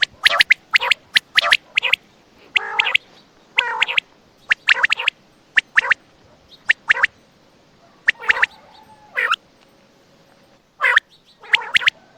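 Quail calling: repeated short, sharp notes in pairs and small groups, with a longer, harsher call about three seconds in.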